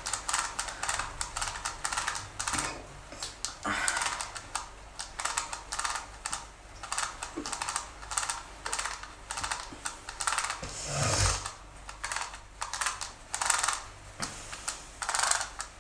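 Dental floss being handled and worked close to the phone's microphone: irregular clicks and rustles, several a second, with one louder thump about 11 seconds in.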